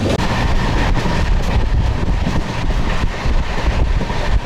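Wind buffeting the microphone, heavy and gusting, over the rumble of a moving passenger train.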